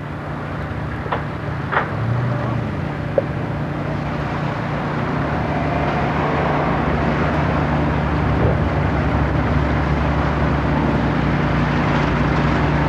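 An engine running steadily under a rushing noise, slowly growing louder, with a few faint clicks in the first two seconds.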